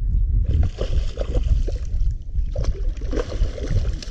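Low, steady rumble of wind buffeting the microphone, with irregular splashes and knocks on the water and boat.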